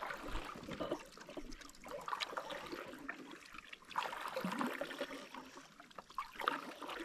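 Water trickling and splashing, swelling a few times.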